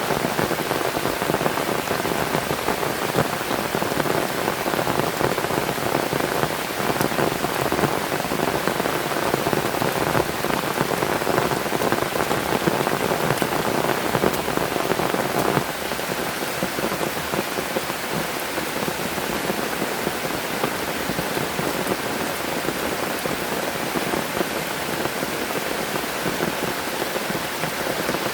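Heavy rain falling steadily, a dense hiss of drops, turning a little softer suddenly about halfway through.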